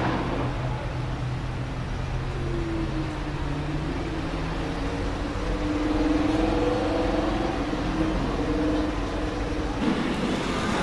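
Lamborghini Huracán LP610-4's V10 engine running, a steady low note at first, then its pitch rising and falling gently through the middle.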